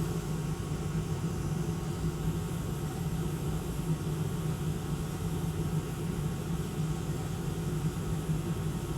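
Steady whir with a constant low hum from electronics-repair bench equipment running while a graphics card's HDMI port is being heated off the board.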